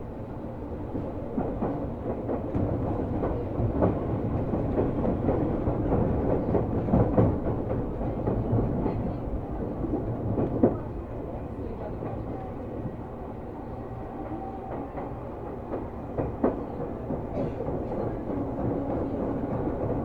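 Seibu New 2000 series electric train heard from inside a passenger car: steady rumble of the car with wheels clicking over rail joints, and a few sharper knocks.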